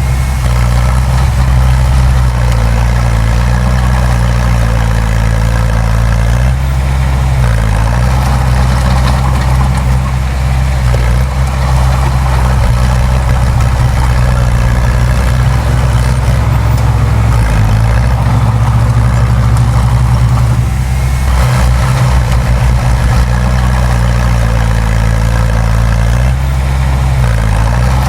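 Heavy diesel engine of earthmoving machinery running steadily under load, its pitch dipping briefly a few times.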